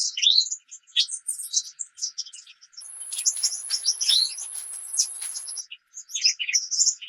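Songbirds chirping and calling in quick, overlapping short phrases, some notes sweeping down in pitch. From about three to five and a half seconds in, a steady high-pitched whine runs beneath the calls.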